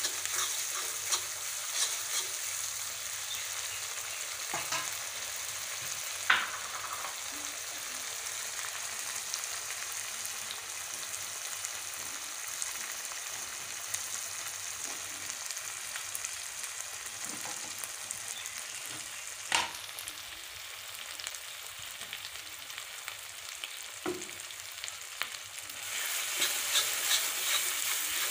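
Tomato and onion masala sizzling in hot oil in a metal kadai, with a steel spatula stirring and scraping the pan and a few sharp knocks of metal on metal. The sizzle grows louder near the end as the stirring picks up.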